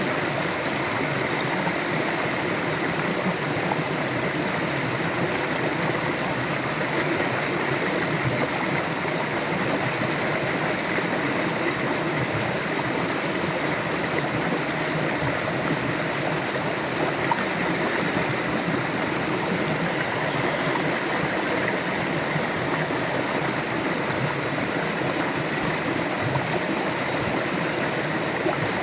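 River water flowing steadily over rocks in a continuous rushing and gurgling.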